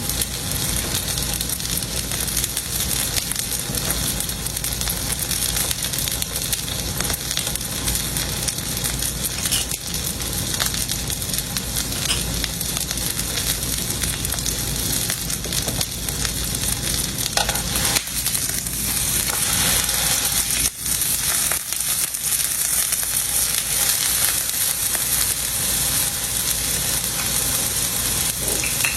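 Steak sizzling steadily in a hot pan, a continuous frying hiss with a few faint ticks.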